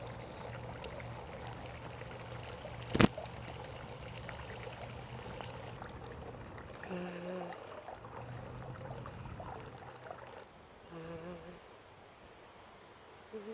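A steady rushing noise like running water, with a sharp click about three seconds in and a low hum that stops near the end. A few short, low hooting calls come about seven and eleven seconds in.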